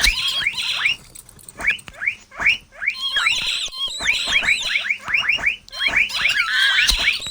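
Mouse squeaking sound effect: quick clusters of short, high, rising squeaks, with scratchy chattering mixed in.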